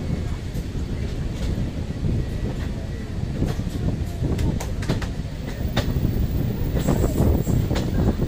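Passenger train running along the track, heard from an open coach doorway: a steady low rumble of wheels on rail, with a quick run of sharp clicks about halfway through and a faint high squeal near the end.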